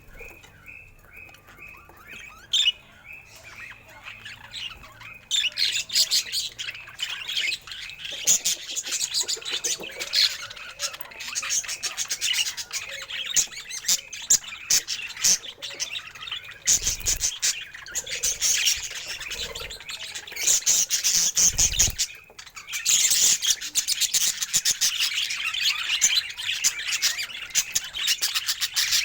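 Budgerigars chattering and warbling: a fainter run of quick repeated chirps at first, then about five seconds in a dense, loud stream of warbles, chirps and squawks that goes on, with a brief pause a little past twenty seconds.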